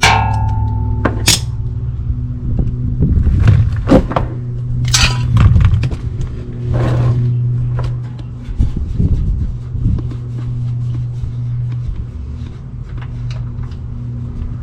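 Metal clinks and knocks from hand work under a vehicle during an engine oil drain, the first a sharp ping that rings briefly, over a steady low hum.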